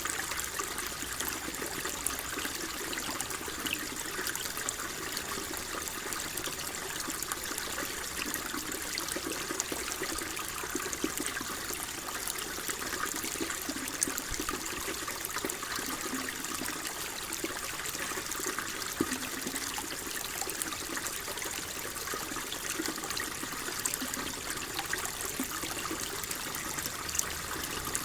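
Water flowing and trickling steadily, a constant gurgling rush with small splashes and drips throughout.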